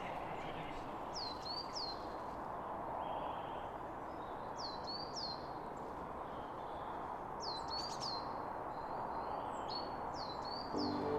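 A small bird calling repeatedly, in groups of two or three short high notes that sweep downward, every few seconds over a steady outdoor noise haze. Music comes in near the end.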